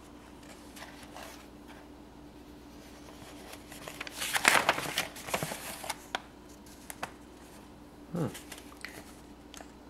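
Paper pages of a model kit's instruction manual being handled and turned, rustling and crinkling, loudest about four to five and a half seconds in, with a few light clicks.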